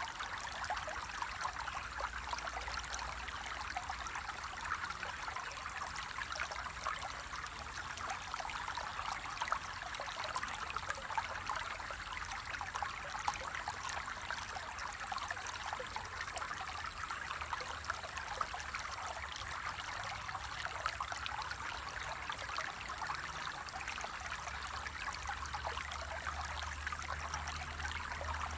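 Water in a small stream flowing and trickling steadily, with a continuous fine babble and a faint low rumble underneath that strengthens near the end.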